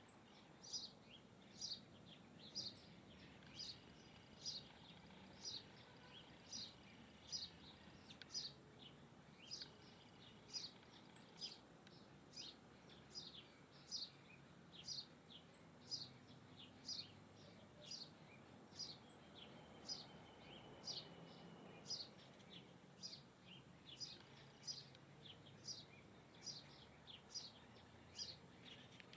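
A bird calling: one short, high, downward chirp repeated steadily, somewhat under two a second, over faint outdoor background noise.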